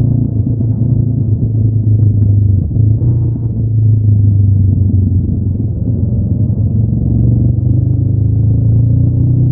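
Honda NX500's 471 cc parallel-twin engine running through its stock exhaust under way, the revs easing off around the middle and building again near the end.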